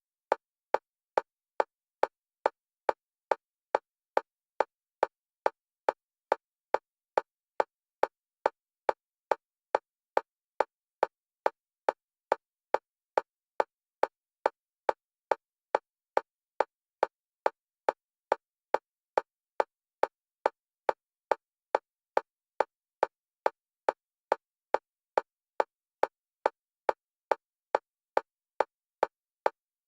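Synthetic metronome clicks for EMDR bilateral stimulation, one pitch, alternating between the left and right stereo channels. They go at a fast, perfectly even rate of about two clicks a second, each the same short, mid-pitched tick.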